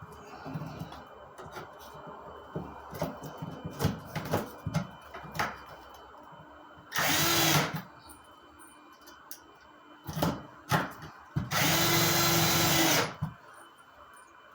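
A power drill driving screws through sheetrock into wood backing, in two runs: a short burst about seven seconds in and a longer one of about a second and a half near twelve seconds. Light clicks and knocks from handling the screws and drill come between them.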